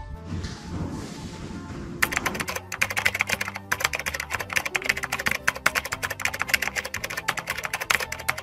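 A whoosh, then a rapid run of keyboard-typing clicks for about six seconds that stops abruptly: a typing sound effect under text typing itself onto the screen, over background music.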